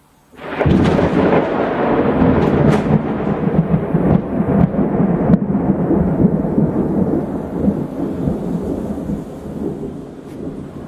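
A thunderclap that breaks suddenly about half a second in, then rolls on as a long rumble with a few sharp crackles, slowly fading away.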